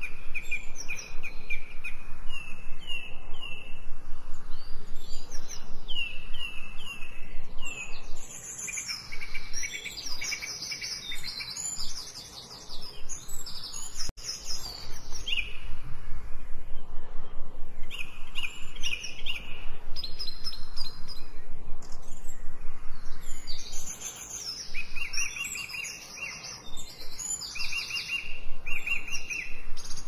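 Several birds singing and chirping in quick series of short, high notes and trills, one after another, over a steady background hiss, in a forest-ambience recording mixed as 8D audio so that the sound swings from side to side.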